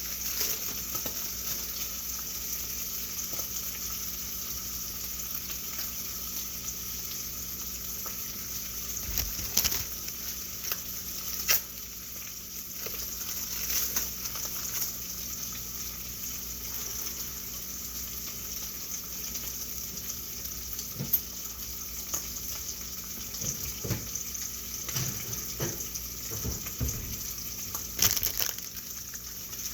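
Food sizzling as it fries in a pan, a steady hiss, with a few sharp knocks of a utensil against the pan scattered through.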